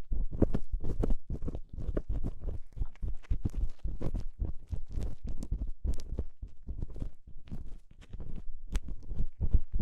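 Ear-cleaning tool scraping and rubbing inside a binaural microphone's ear: quick, irregular scratchy strokes, several a second.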